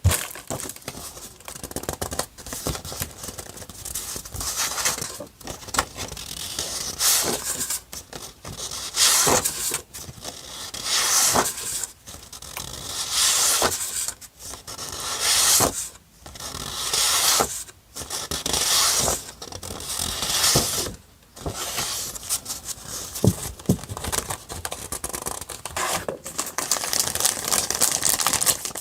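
Paper and stickers handled close up for journal decorating: a run of short rasping tearing strokes, each about a second long, with light taps and rustles between them.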